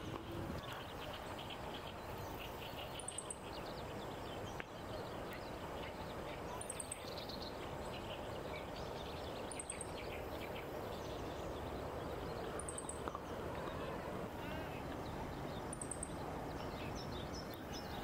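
Wild birds calling: scattered short chirps in the first few seconds, and a brief, very high falling note repeating about every three seconds, over steady background noise.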